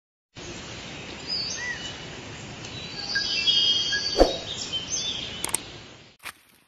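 Forest ambience of birds chirping and calling in short gliding notes over a steady hiss, with one sharp click about four seconds in. It starts suddenly and fades out near the end.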